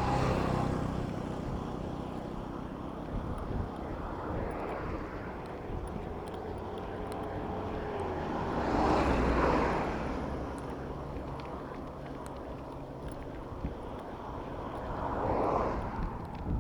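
Street traffic heard from a bicycle: a steady hum of motor vehicle engines and tyres, with one vehicle swelling up and fading about nine seconds in and another near the end.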